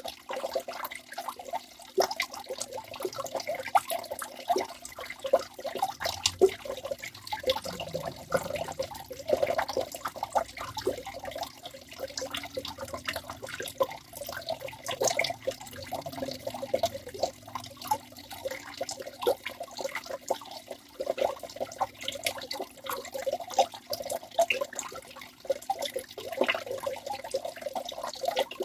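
Waterfall: water pouring and splashing, a continuous run of irregular splashes and drips.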